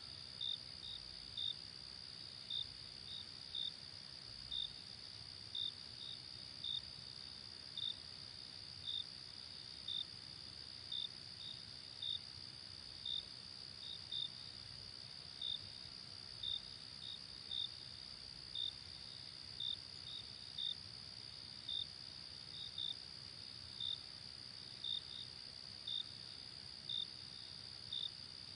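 Night insect chorus: a steady high-pitched cricket-like hum with short chirps repeating about one to two times a second, some in pairs.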